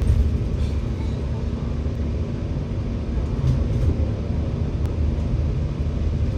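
Scania K94UB bus engine and drivetrain running, heard from inside the passenger cabin as a steady low rumble.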